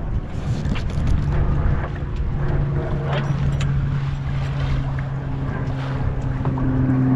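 Wind and water noise aboard a sailing yacht, with scattered clicks and knocks, and a steady low motor hum that sets in about a second and a half in and grows louder.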